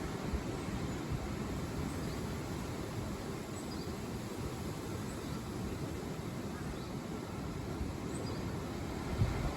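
Wind blowing through large forest trees: a steady low rushing with rustling leaves, with faint high chirps scattered through it. A brief low thump near the end.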